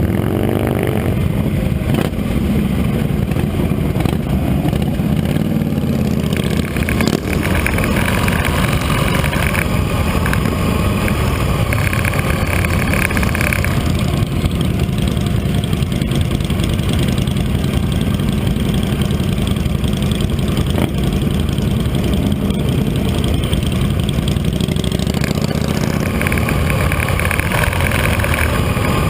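Motorcycle engine running steadily, a deep rumble that does not let up.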